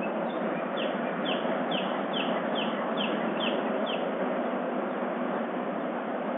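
A songbird singing a run of about eight quick notes, each sliding down in pitch, about two a second, stopping about four seconds in. Under it runs a steady hiss of background noise.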